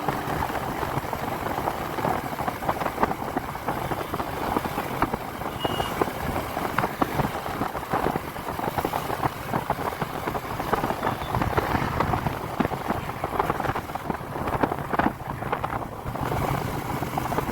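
Motorcycle on the move: steady, rushing engine and road noise with a crackly texture.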